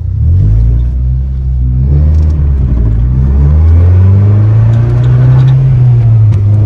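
Toyota 3S-GE Beams twin-cam inline-four in a Datsun 620 pickup accelerating hard, heard from inside the cab. The engine note climbs, dips briefly about two seconds in, then climbs steadily again.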